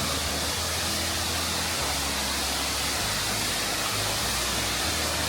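Steady rushing roar of Hickory Nut Falls, water pouring and crashing down the falls.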